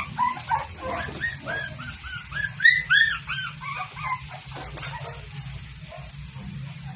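Dog yipping and whining in a quick run of short, high calls, loudest about three seconds in and thinning out after about four seconds.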